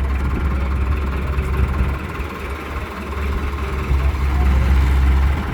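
Diesel engine of a tractor or loader running steadily with a deep rumble. It eases a little a couple of seconds in and grows louder again near the end.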